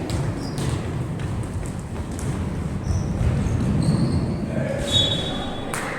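Ambient noise of an amateur ball game: a steady low rumble with scattered knocks and distant voices, and a brief high squeak or whistle about five seconds in.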